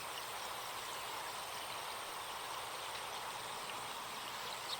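Recorded forest stream running steadily, with a single brief high bird chirp near the end.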